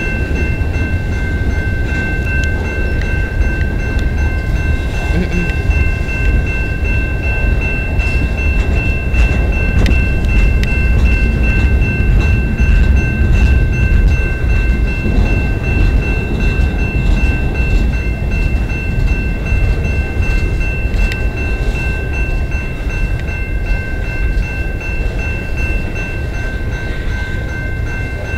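Freight cars of a CN freight train rolling steadily past a level crossing: a continuous low rumble of wheels on rail. Over it, a steady high ringing from the crossing signal's bell runs without a break.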